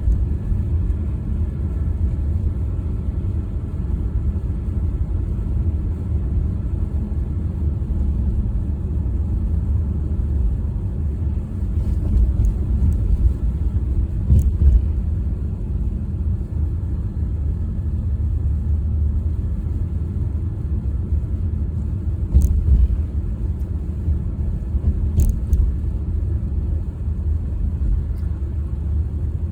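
Steady low rumble of a car driving, engine and tyre noise, with a few faint clicks about halfway through and near the end.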